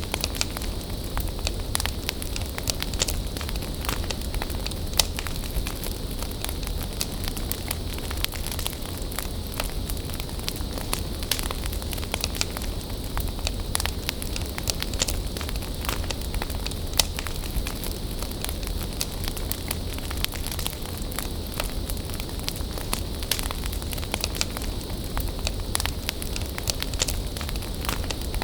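Wood bonfire burning with a steady hiss and frequent sharp crackles and pops all through.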